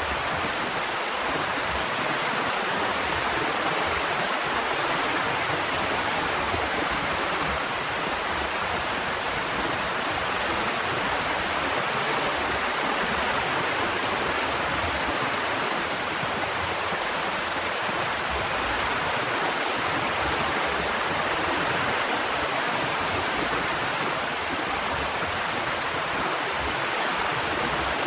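Heavy rain falling steadily: an even hiss with no single knocks or voices standing out.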